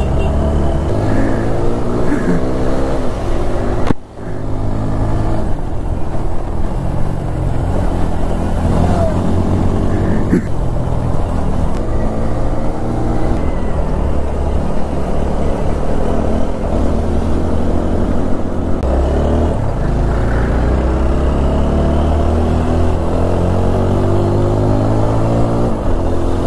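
Motorcycle engine running on the move, its revs rising and falling again and again, with a brief sudden drop-out about four seconds in.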